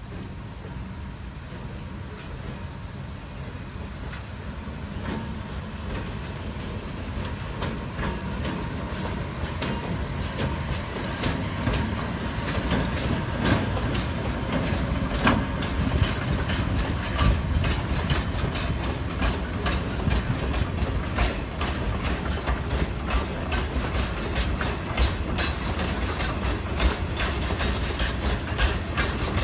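Chichibu Railway limestone freight train of hopper wagons rolling along the track, its wheels clicking and clattering over the rail joints over a low rumble. The sound grows steadily louder, the clicks coming thicker from about a third of the way in, as the train draws nearer.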